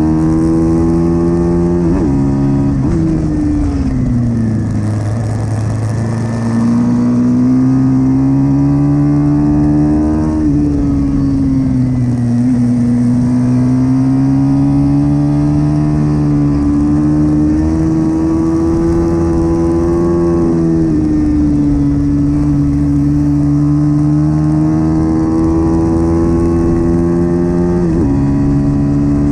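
Small single-cylinder pit bike engine revving hard under race throttle, its pitch climbing and falling with throttle and gear changes and dropping sharply several times.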